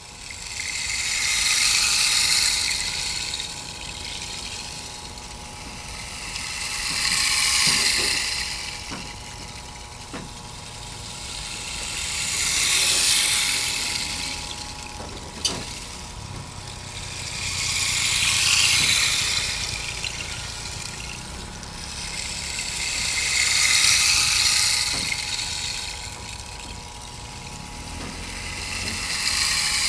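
Sound-art soundscape: swells of rushing, water-like hiss rising and falling about every five and a half seconds, like surf, over a faint steady hum. A single sharp click comes about halfway through.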